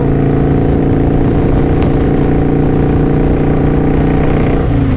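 Kawasaki Vulcan VN900 V-twin engine running at a steady cruise, heard from the rider's seat; its pitch drops near the end as the revs fall.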